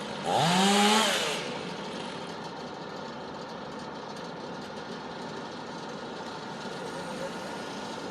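Chainsaw revved up once, briefly, about half a second in, its engine pitch rising sharply and then falling away. A steady engine idling continues underneath.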